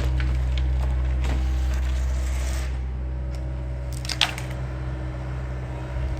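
John Deere excavator's diesel engine running steadily while wood crunches and splinters, with a sharp crack about four seconds in.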